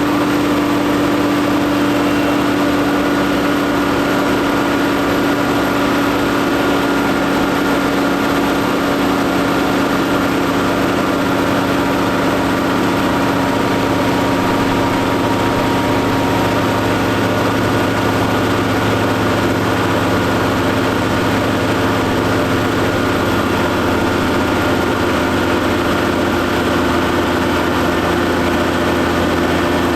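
Fendt 716 tractor engine running steadily at high revs on a PTO dynamometer test. Its pitch sags slightly in the first half, then holds.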